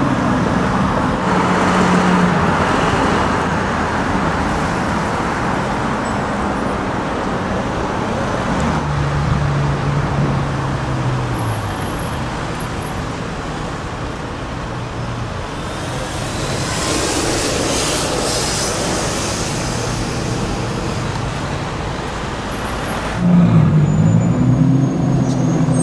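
Supercars driving off through city traffic over steady road noise. An engine note swells and falls at the start and again about a third of the way in. A louder engine note cuts in suddenly near the end, its pitch rising and then falling.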